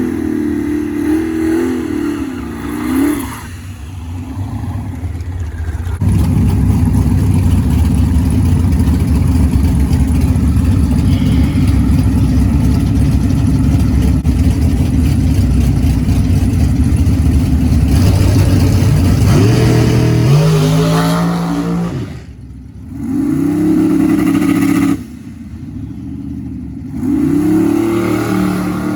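Twin-turbo LS V8 engine in a drag-racing Fox-body Mustang revving with its pitch rising and falling, then running loud and steady at high power for about thirteen seconds. After that come a climbing rev and a few shorter revs.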